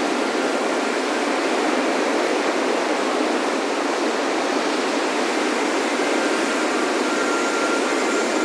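Ocean surf washing steadily onto a beach, an even rushing wash with no single breaking wave standing out. Near the end a few faint wind-chime tones ring over it.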